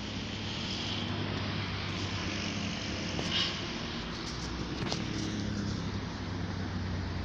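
Steady low rumble of vehicle noise with a brief higher-pitched squeal about three seconds in and a sharp click near five seconds.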